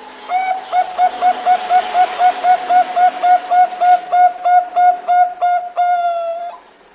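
Zebra dove (Bangkok-type perkutut) calling: a fast, even run of about twenty short clipped coos, roughly four a second, ending in one longer drawn-out note.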